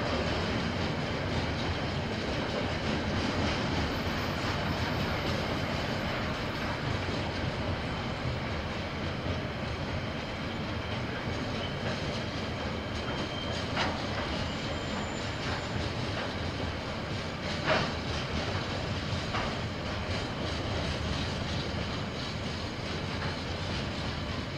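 KiwiRail train rolling past, a steady rumble of wheels on the rails, with a few sharp knocks, the loudest about 18 s in.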